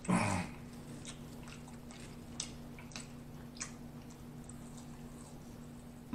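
Close-miked chewing and mouth sounds of a person eating fried food: scattered soft wet clicks over a steady low hum, with a brief louder mouth sound at the very start.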